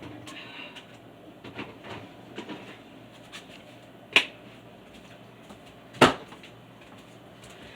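Food containers and items being handled and taken out of a refrigerator: light clattering and rustling, with two sharp knocks about four and six seconds in as items are set down or bump against the shelves.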